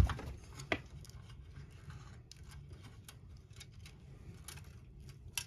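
Scattered light clicks and taps of plastic model-kit parts and wires being handled, with one sharper knock just under a second in.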